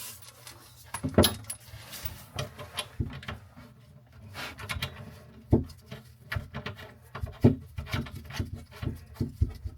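Irregular clicks, knocks and light metallic clinks of faucet supply hoses and their fittings being handled and fitted. The loudest knocks come a little past a second, about five and a half and about seven and a half seconds in.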